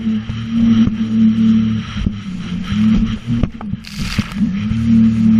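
Sea-Doo jet ski engine running at speed with a steady tone. About three and a half seconds in the pitch dips and wavers with a short rushing hiss, then climbs back to the steady tone.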